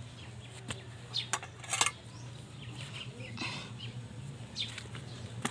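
Birds chirping now and then, with a few short, sharp clicks over a steady low hum.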